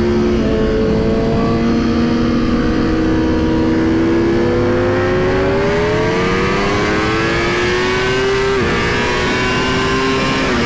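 Superbike engine pulling a long, slow rise in revs under acceleration. Its pitch drops suddenly with an upshift about eight and a half seconds in, then holds steadier.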